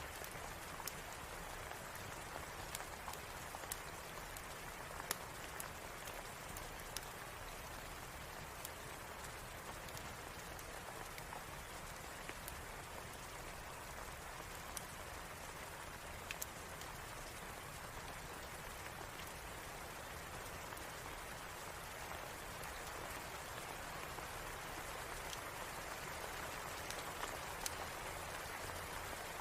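Steady rain falling, with sparse, irregular sharp clicks over it.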